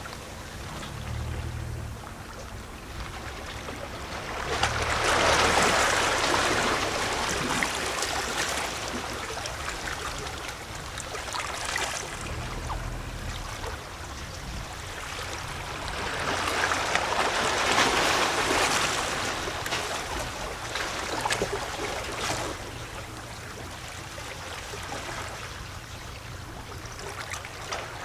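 Small sea waves lapping and sloshing against rocks, with gurgling and splashing as the water moves among the stones. Two bigger washes swell up, about four seconds in and again around sixteen seconds, each lasting several seconds before easing back.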